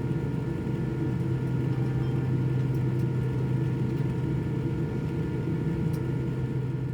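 Steady low cabin hum inside a Boeing 787-9 airliner on the ground after landing, with a few faint thin steady tones over the rumble.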